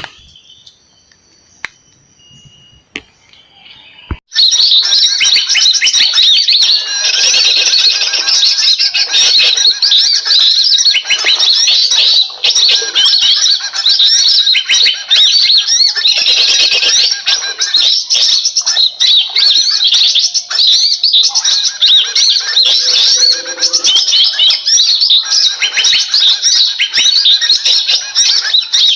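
A few faint clicks, then about four seconds in, loud recorded bird calls switch on abruptly: a dense, unbroken chorus of rapid chirps and twitters played from an MP3 lure speaker to attract small birds.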